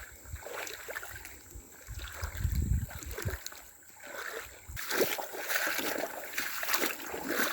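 Small splashes and water sloshing close by, with a low rumble about two to three seconds in; from about the middle the water noise grows rougher and busier, with small clicks.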